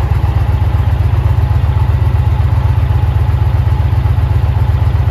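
2020 Indian Challenger Dark Horse's liquid-cooled PowerPlus V-twin idling steadily, with an even low pulsing beat.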